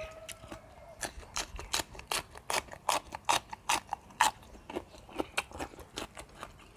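Crisp crunching of raw young leucaena pods being bitten and chewed, a run of sharp crunches about two or three a second, starting about a second in.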